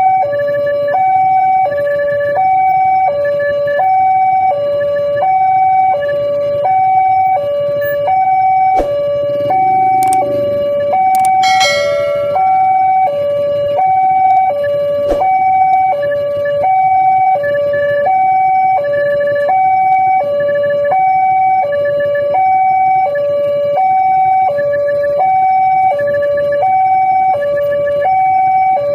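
Railway level-crossing warning alarm sounding continuously: an electronic two-tone signal stepping between a higher and a lower tone about once a second, warning that a train is approaching and the gate is down. A short, brighter blast cuts in about eleven seconds in, over low road rumble.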